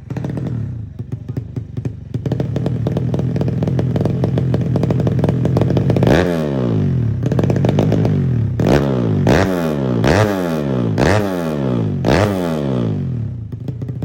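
Motorcycle single-cylinder four-stroke engine, a Honda Supra bored up to 150cc, idling, then blipped hard about six times, each rev rising sharply and falling back, before settling to idle again near the end.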